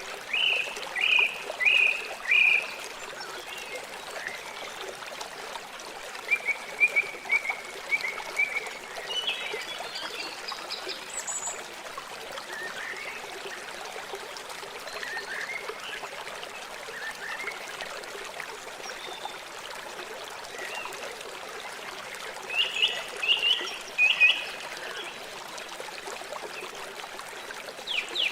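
River water flowing steadily, with several clusters of short high chirping calls from a small animal over the top.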